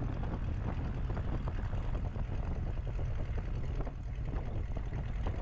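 Cessna 172RG's Lycoming O-360 engine and propeller running steadily at low power in the cockpit, a constant low drone before the takeoff power is applied.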